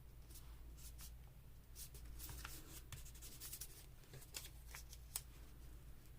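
Faint paper handling: sheets and ephemera rustling, sliding and being pressed down, with scattered light taps and clicks.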